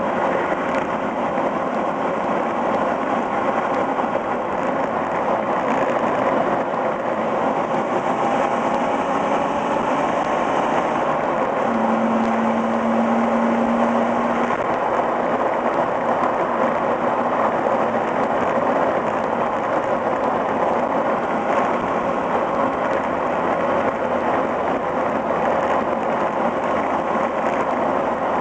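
Exhaust of a high-mileage Toyota Echo's 1.5-litre four-cylinder through its stock muffler while driving, heard from the rear license plate and mixed with steady wind and road noise. A short steady hum stands out for a couple of seconds about twelve seconds in.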